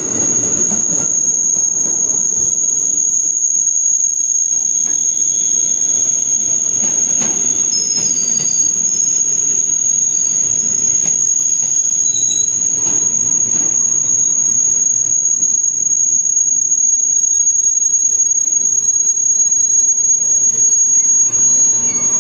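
JR 205 series electric commuter train (KRL) rolling along the platform and slowing to a stop, with a low running rumble. Brief wavering high squeals come near the middle, and a steady high-pitched tone sits over it all.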